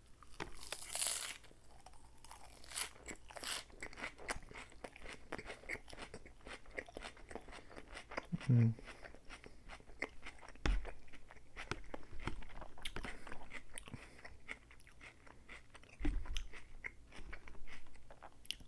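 Close-miked crunching and chewing of a mouthful of lettuce salad, a crisp bite about a second in followed by a dense run of small crunchy chewing clicks. A couple of dull low knocks come later on.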